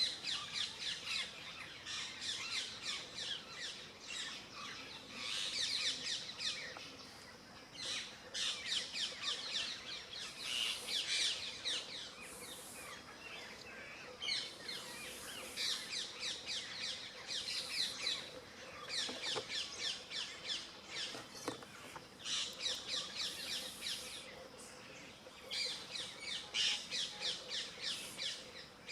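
Birds chirping and twittering in rapid high-pitched bouts a few seconds long, with short quieter gaps between them.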